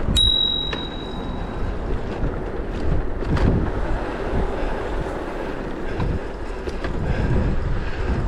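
Bicycle bell rung once right at the start, a bright ding that rings on for under a second, over steady wind rush on the microphone and riding noise from the e-bike.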